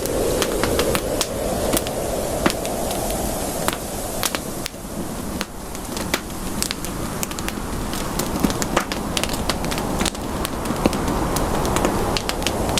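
Campfire crackling: irregular sharp pops and snaps of burning wood over a steady rushing hiss of the flames, which eases a few seconds in and then builds back up.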